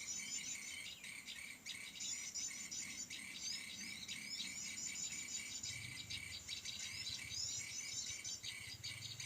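Dense, high-pitched twittering of small birds, with many quick chirps and short sweeping notes overlapping. A faint low hum comes in about halfway through.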